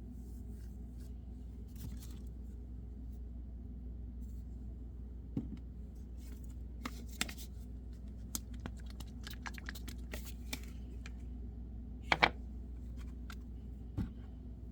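Carving knife cutting and scraping white birch wood in short, scattered strokes and clicks, with a louder cut about twelve seconds in, over a steady low hum.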